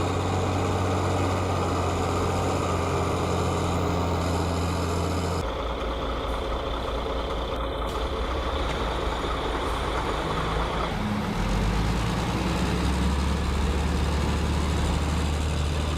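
Heavy truck diesel engines running steadily, in three stretches that change abruptly about five and eleven seconds in.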